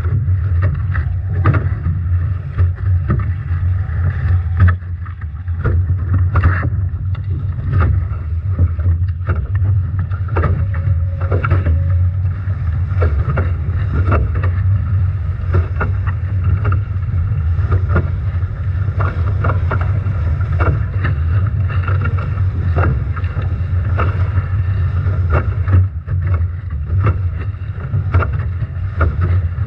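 Nacra 17 foiling catamaran sailing upwind in strong wind and heavy waves: wind buffeting the microphone in a steady low rumble, with frequent sharp knocks and splashes of water hitting the hull.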